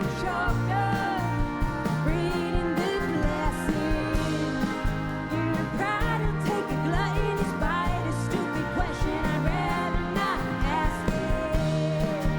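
Live band playing a country-rock song, with guitars, bass and drums keeping a steady beat and a voice singing over them.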